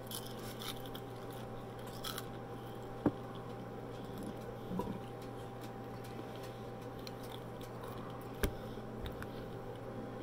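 Close-up chewing of a fried onion ring: soft crunching and wet mouth sounds, with two sharp clicks, about three seconds in and near the end, over a steady low hum.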